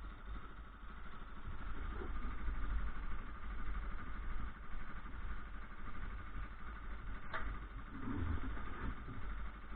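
Motorcycle engine idling steadily, with a single sharp click about seven seconds in.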